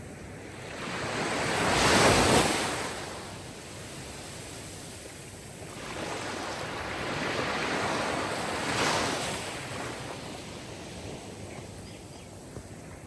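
Sea waves breaking and washing in: one swell peaks about two seconds in, and a second, longer one builds and breaks around eight to nine seconds.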